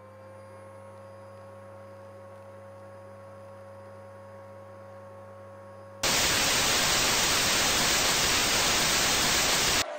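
Steady low electrical hum with a faint held tone over it. About six seconds in, a sudden loud burst of white-noise static takes over for a few seconds, then cuts off abruptly near the end.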